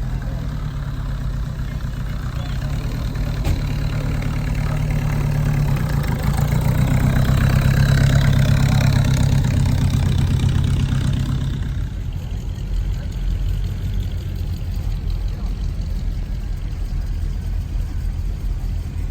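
A car engine running at low revs. It swells louder toward the middle, then drops back about twelve seconds in.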